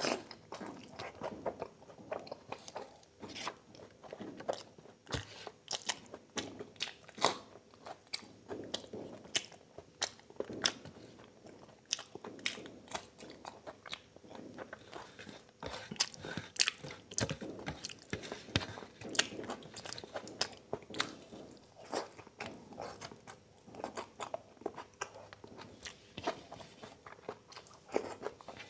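Close-miked eating: a man chewing mouthfuls of chow mein noodles and oily mutton curry eaten by hand, with many sharp, irregular mouth clicks and smacks.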